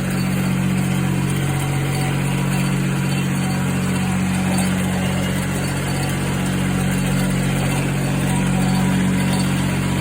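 Kubota D600 three-cylinder diesel of a Cub Cadet 782D garden tractor running steadily at low throttle while the tractor is driven, the engine still cold from a freezing-morning start.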